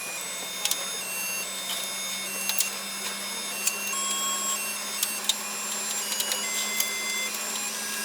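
Retro coin-operated cotton candy vending machine running: its motor gives a steady hum while short, high electronic notes of its built-in tune and small clicks sound over it.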